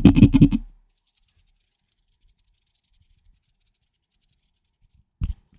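Fingers scratching directly on a microphone in a quick run of strokes that stops within the first second. Then it goes quiet until a single short tap on the mic near the end.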